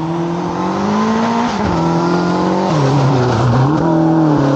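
Rally car engine running hard at full throttle as the car passes and pulls away on a dirt road. Its pitch climbs, then drops sharply a couple of times and rises again.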